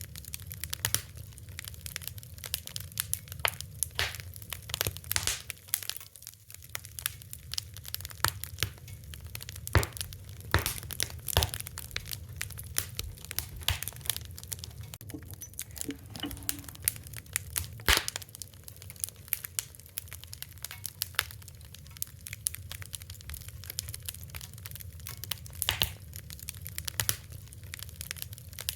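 Wood fire crackling: irregular sharp pops and snaps over a steady low rumble of burning, with a few louder pops scattered through.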